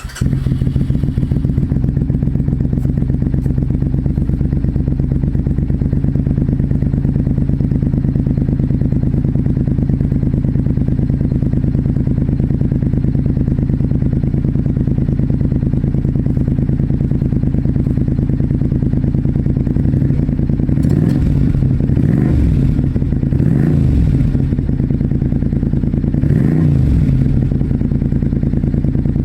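Suzuki Intruder Classic 400 V-twin running through a Kentec 2-into-1 aftermarket muffler, idling steadily with a deep exhaust note. From about twenty seconds in, the throttle is blipped four times in short rises and falls before settling back to idle.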